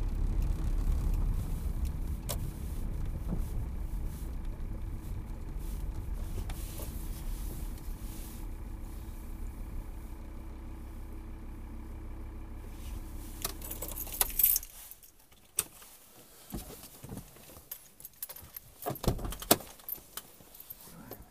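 Car engine running as the car rolls slowly to a stop, heard from inside the cabin. About 14 seconds in, the engine is switched off and cuts out suddenly, followed by scattered clicks and a jangle of keys.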